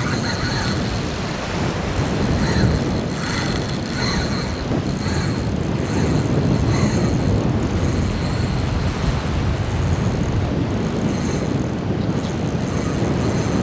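Spinning fishing reel working against a hooked fish, its drag and gears clicking and whirring, under heavy wind noise on the microphone.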